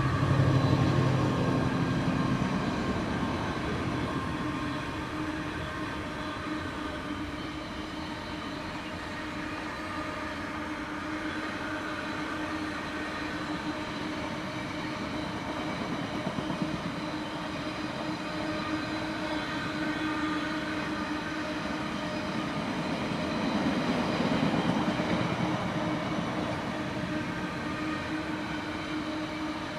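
Train going by on the line: loud at first, then fading, with wheels rolling over the rails and a steady hum throughout. The sound swells again about 24 seconds in.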